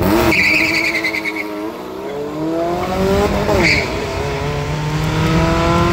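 Drag car launching off the line and accelerating hard, its engine revs climbing, with a high squeal in the first second or so. The pitch drops sharply at a gear shift about three and a half seconds in, then climbs again as it pulls away down the strip.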